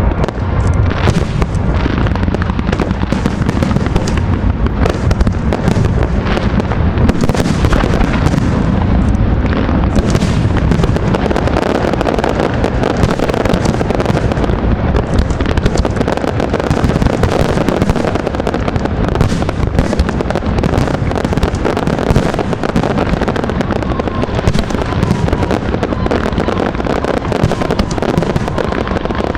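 An aerial fireworks display with many shells bursting in quick succession, with no break.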